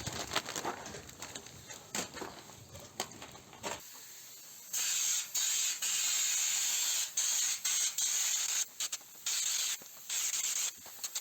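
Stone chip guard being sprayed in a series of on-off bursts of loud hissing. Before the spraying starts there are a few seconds of rustling and handling clicks.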